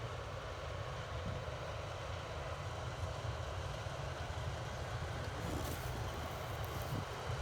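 Farm tractor engine running steadily at a low rumble, heard from inside the cab, with faint crackling near the end.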